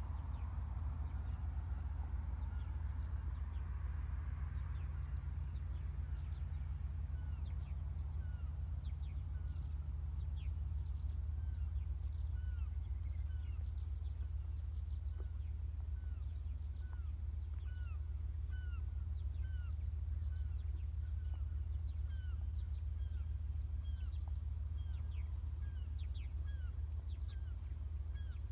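Birds calling in short, repeated hooked notes, about one a second, starting several seconds in, over a steady low rumble.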